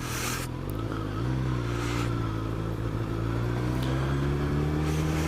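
Suzuki GSX-S1000's inline-four engine running under way, its pitch shifting about a second in and then slowly climbing as the bike gathers speed. A short rush of wind noise at the start.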